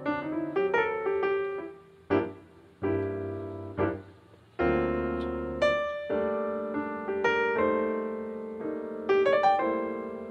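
Solo piano playing, with chords and single notes that each sound sharply and then fade, and brief near-pauses about two and four seconds in.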